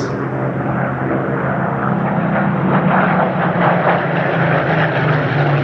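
Supermarine Spitfire's V12 piston aero engine running at steady power, a droning hum that grows slightly louder about three seconds in.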